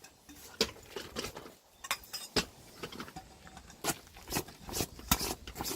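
Scattered light clicks and clinks, about a dozen sharp taps at irregular intervals.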